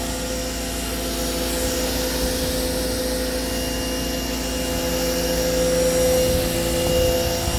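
Giraffe Tools Grandfalls electric pressure washer running steadily, its motor and pump giving a constant whine.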